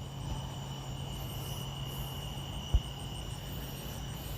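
Steady high-pitched insect trill with a low steady hum beneath it; a single dull thump a little past the middle is the loudest sound.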